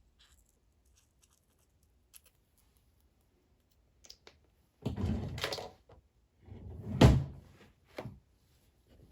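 Clear slime being handled and squished by hand: a squelching sound lasting about a second, about five seconds in, then a sharper, louder squelch about two seconds later and a short one just after.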